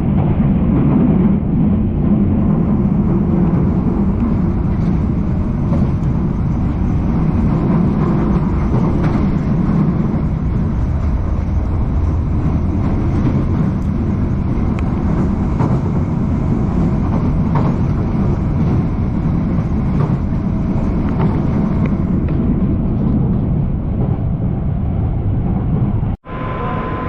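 Loud, steady rumble of a vehicle in motion, cut off abruptly about a second before the end.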